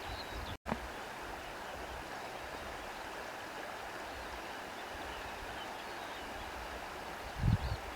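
Steady rushing outdoor ambience of nature sounds, with faint bird chirps near the start and end. The sound cuts out for an instant just over half a second in, and a low rumbling thump comes near the end.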